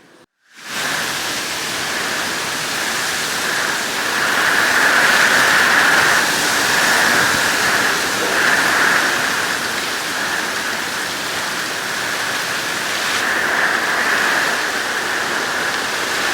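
Hurricane Milton's wind and heavy rain: a loud, steady rush that swells and eases with the gusts.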